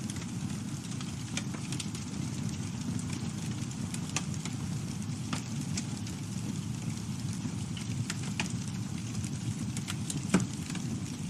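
Campfire burning with a steady low rumble of flame, and scattered crackles and pops of burning wood, the loudest a sharp crack about ten seconds in.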